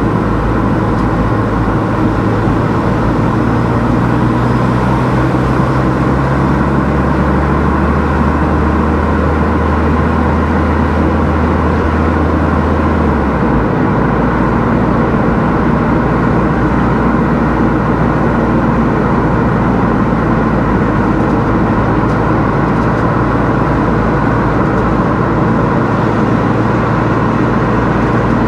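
Car driving at steady speed: continuous engine and tyre-on-road noise, with a low engine hum that shifts in pitch about halfway through.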